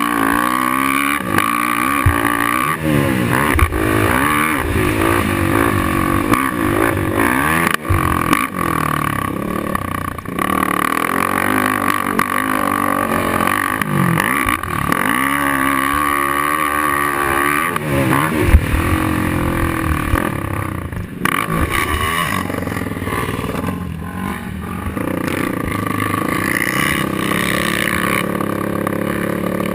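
Racing quad (ATV) engine being ridden hard, revving up and dropping back again and again as it accelerates and shifts, with no break in the engine sound.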